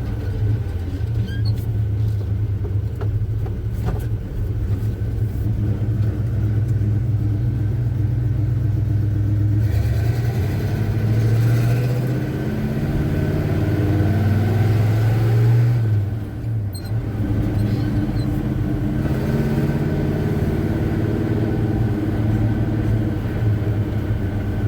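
The 350 V8 in a 1984 Chevy C10 pickup running while the truck is driven, heard from inside the cab. Its note rises about ten seconds in, dips around sixteen seconds, then climbs again.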